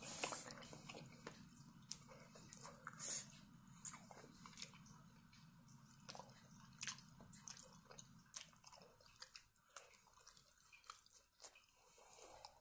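Faint chewing and small mouth clicks of someone eating cheesy mashed potatoes with corn from a metal spoon.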